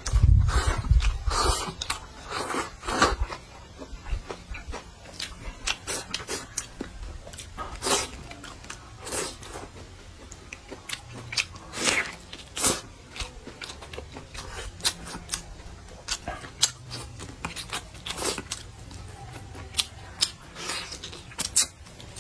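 A person eating close to the microphone: irregular chewing, biting and crunching, with a loud low thump right at the start.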